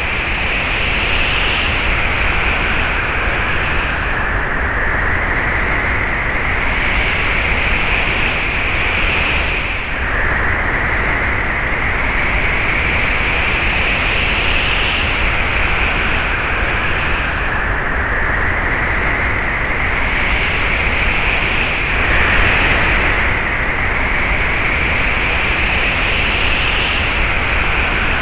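Wind sound effect: a steady rush of wind with a whistling edge that swells and slowly rises in pitch in gusts every few seconds. It changes abruptly about ten seconds in and again about twenty-two seconds in.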